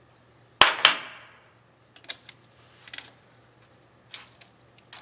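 Small parts and tools being handled while working on a car distributor: two sharp clacks a little over half a second in, then scattered light clicks.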